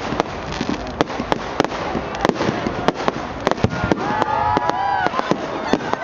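Fireworks going off in rapid succession: dense sharp cracks and pops over a steady crackle. From about four seconds in, high-pitched voices call out over them.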